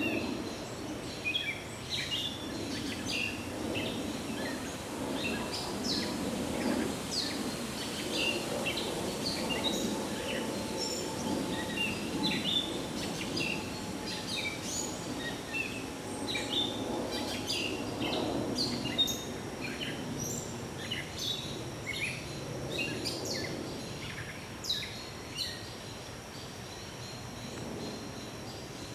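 Several songbirds chirping and calling in woodland at dusk, many short calls scattered throughout, over a steady low background rumble.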